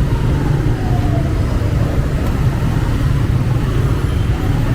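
125 cc motorcycle engine running steadily at riding speed, mixed with wind and road noise and the surrounding traffic. A faint falling tone passes about a second in.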